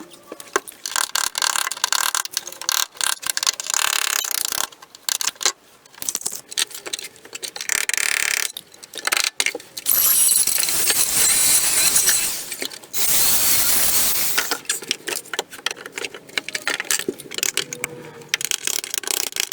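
Hand work on car body panels: irregular clicks, knocks and rattles of metal tools, with several short bursts of scraping or hissing noise, the longest and loudest about ten to fifteen seconds in.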